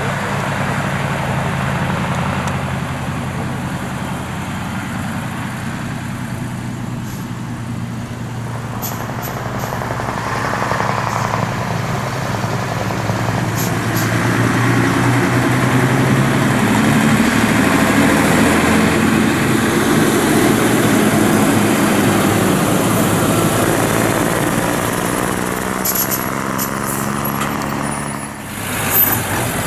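Heavy lorry's diesel engine running, growing louder for several seconds as the truck draws near, then fading near the end.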